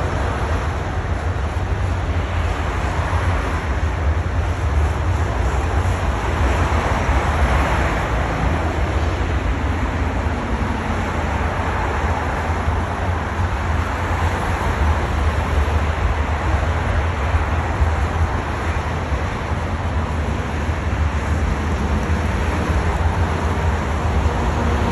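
Long freight train rolling past: a steady rumble and rushing noise of the wagons on the rails, with a strong low drone underneath.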